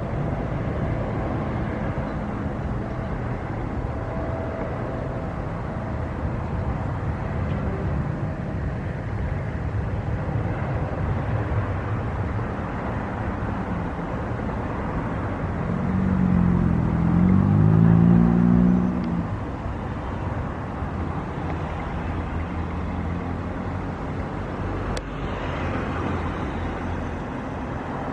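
Steady low rumble of a motor-vehicle engine. Just past halfway, an engine rises in pitch and gets louder for about three seconds, as a vehicle speeds up and passes.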